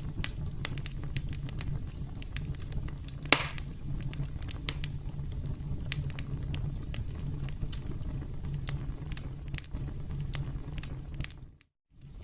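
Campfire crackling: a steady low rumble of burning with frequent sharp pops and snaps, one louder pop about three seconds in. The sound cuts out briefly near the end.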